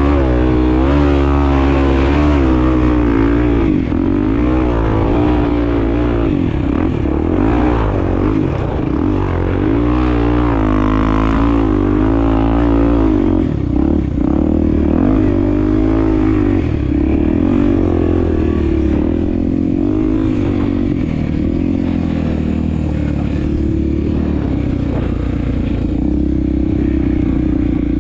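Honda Tornado 250's single-cylinder four-stroke engine running under way off-road, the revs rising and falling again and again with the throttle, then holding steadier over the last several seconds.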